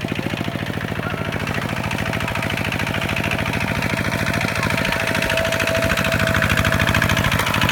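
Kubota tractor's diesel engine running with a steady, rapid chugging beat, growing a little louder toward the end.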